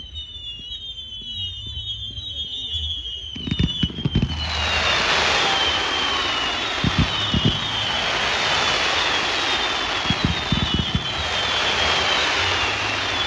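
Fireworks display: a rapid string of short falling whistles, then a cluster of bangs about three and a half seconds in. Dense crackling follows, with more bangs near seven and ten seconds, while the whistles carry on over the top.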